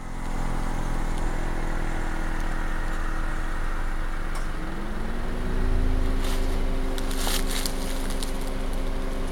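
An engine running steadily, its pitch rising and then holding higher about five seconds in, with a few brief scraping clicks near the end.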